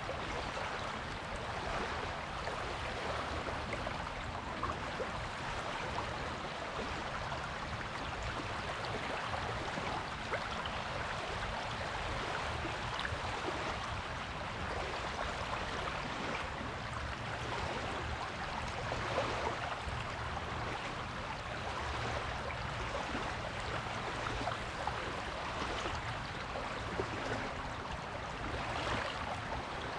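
Surf on a beach: small waves washing and fizzing on the shore in a steady hiss, with no single big crash. A faint low hum sits underneath in the second half.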